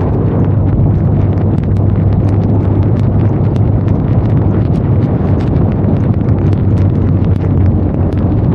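Benelli Leoncino 500 Trail's parallel-twin engine running at a steady speed under a rush of wind, with many sharp ticks of raindrops striking throughout.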